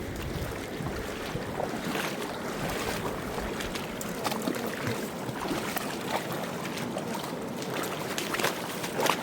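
Rushing mountain river water, a steady wash with scattered small splashes, one sharper splash near the end.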